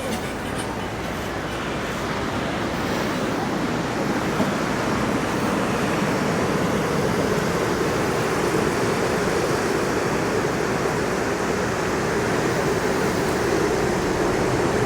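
Steady wash of ocean surf with wind, an even, continuous rush of noise.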